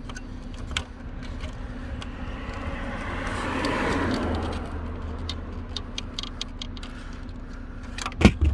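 Scattered small plastic clicks and rattles as a dashboard switch connector and trim are worked loose by hand, ending in a sharp snap near the end. A steady low hum runs underneath, and a rushing sound swells and fades around the middle.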